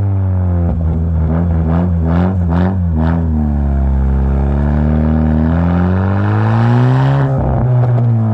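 Exhaust of a straight-piped, turbocharged 10th-gen Honda Civic four-cylinder: the revs fall off for about four seconds with three sharp pops from the burble tune about two to three seconds in, then the engine pulls up in revs, drops suddenly about seven seconds in and climbs again.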